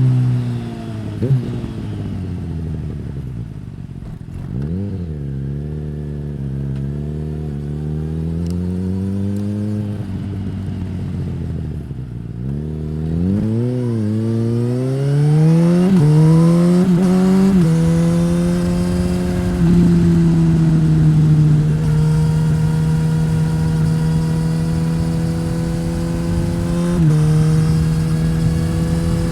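A 2015 Suzuki GSX-S1000's inline-four engine through a Yoshimura R-11 slip-on exhaust. Revs drop at the start, then the engine runs low and uneven for about ten seconds. It revs up through the middle with a gear change, then holds nearly steady revs while cruising, with a brief dip near the end.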